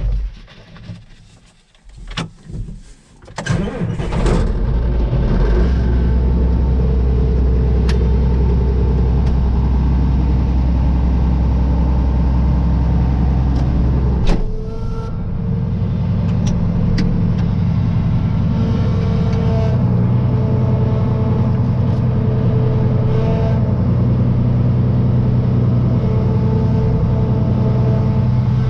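A few clicks, then a vehicle engine is cranked and catches about three seconds in and settles into a steady idle. About halfway through there is a sharp knock and the engine note changes, and the engine keeps running steadily after it.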